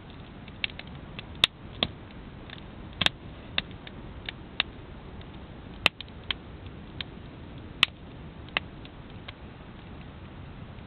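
Wood campfire crackling: irregular sharp pops and snaps, a few of them much louder than the rest, over a steady background hiss.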